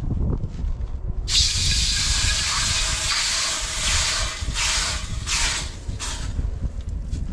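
Water sizzling and hissing into steam in a hot wok, starting about a second in and swelling in several waves. A camp stove burner runs underneath with a steady low rumble.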